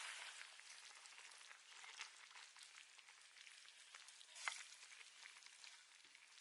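Faint wood fire crackling: a light hiss scattered with small pops, and one sharper crack about four and a half seconds in.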